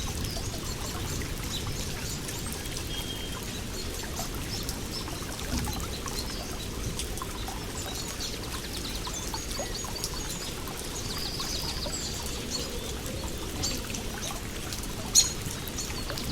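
Water flowing and trickling steadily while small birds chirp and twitter throughout, with a brief sharp sound near the end.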